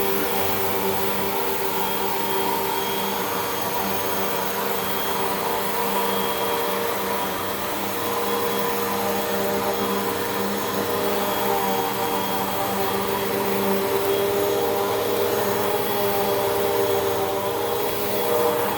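Hoover WindTunnel 2 Rewind upright vacuum cleaner running steadily, a constant motor whine over the rush of air.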